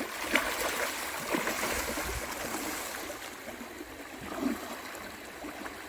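Stream water running steadily, with a couple of short sharp sounds in the first second and a half.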